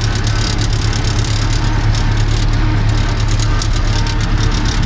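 Universal 650 M tractor's four-cylinder diesel engine running steadily at an even speed, with a constant low hum.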